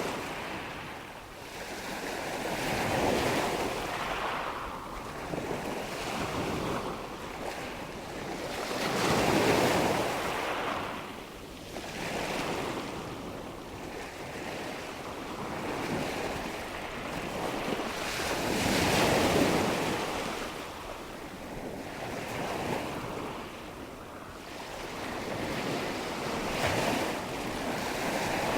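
Rushing water and wind ambience: a soft hiss that swells and eases every several seconds, like waves washing in.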